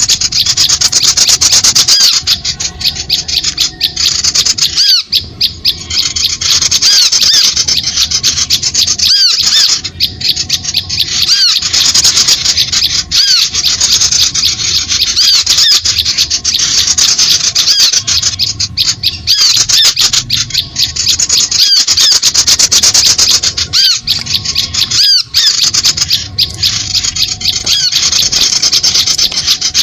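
Bird-lure recording: a dense, loud chorus of many small birds' harsh, rapid chattering calls, without a break.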